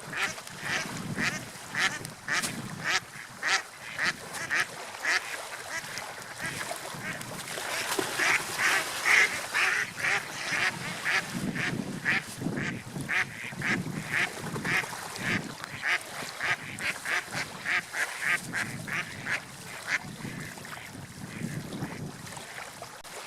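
Ducks quacking, a steady run of short calls two or three a second, thickest around the middle, over a low rushing background.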